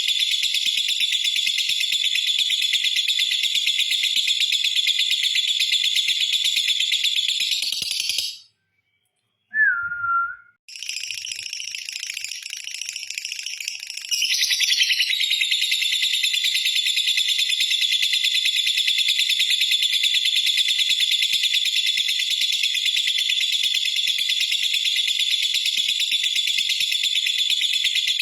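Lovebird's long 'ngekek' song: a continuous, shrill, very rapid chattering trill held for many seconds. It breaks off for about two seconds about a third of the way in, with one short falling whistle in the gap, then starts again.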